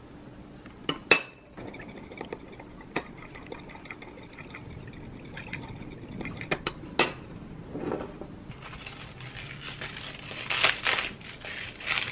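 A metal spoon clinking against a small glass bowl while stirring a thin sauce, with the sharpest clink about a second in and a few more later. In the last few seconds a crisp rustling takes over.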